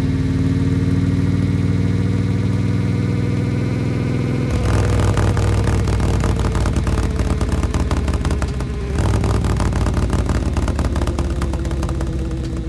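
2013 Harley-Davidson Road Glide's V-twin engine running through an S&S Sidewinder 2-into-1 exhaust. It holds a steady note for the first third, then turns louder and rougher, dips briefly about two-thirds of the way in, and picks up again.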